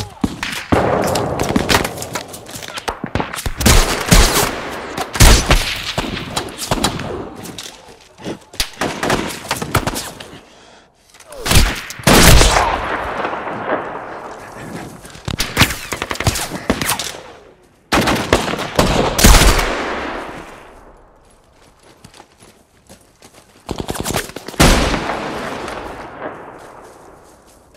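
Film-style gunfire sound effects: single rifle shots and bursts of automatic fire. Several much heavier hits, about a third, two-thirds and seven-eighths of the way through, trail off in long echoing tails.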